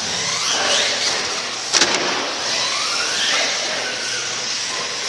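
Monster truck engine revving hard, its pitch rising and falling over a steady noisy rumble, with one sharp bang about two seconds in.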